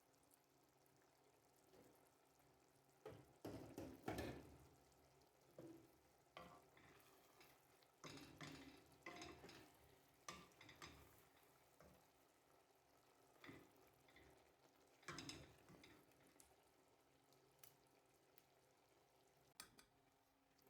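Faint kitchen sounds: a utensil stirring and scraping in a cooking pot, in irregular strokes and clinks that fall quiet near the end.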